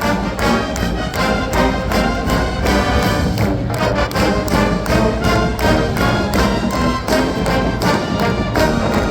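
Massed marching band playing, brass carrying the tune over a steady drumline beat.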